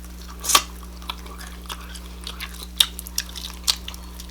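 A person chewing fried chicken close to the microphone: scattered crisp crunches and wet mouth clicks, the loudest about half a second in.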